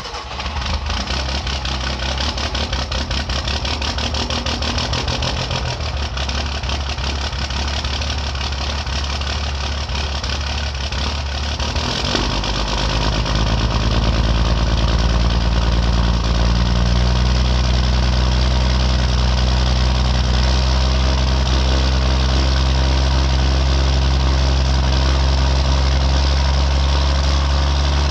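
2007 5.9 L Cummins common-rail inline-six diesel idling just after a cold start, with a clattering idle at first. About twelve seconds in, the idle note changes and settles louder and steadier for the rest of the time.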